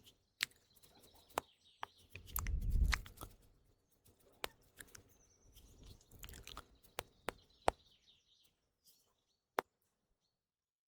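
ASMR mouth sounds close to the microphone: sharp, wet, separate clicks and smacks, over faint chirping birdsong. About two to three seconds in there is a louder, low, muffled swell.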